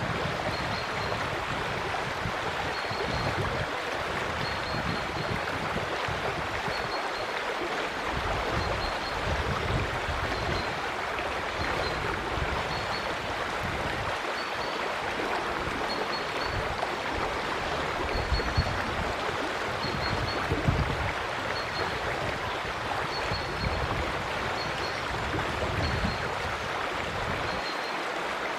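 River water flowing steadily, with a low gusty rumble coming and going underneath. A small bird repeats a short high chirp about once a second.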